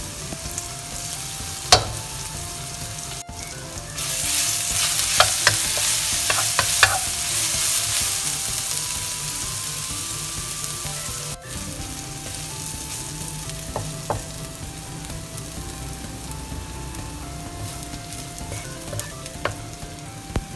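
A pounded paste of garlic, coriander root and white pepper sizzling in hot oil in a nonstick wok, stirred now and then with a wooden spatula. The sizzle turns louder about four seconds in, with a few sharp clicks along the way.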